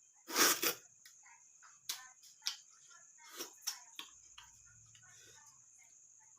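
A person eating rice and fish curry with wet mouth sounds: two loud smacks about half a second in, then scattered chewing clicks and smacks.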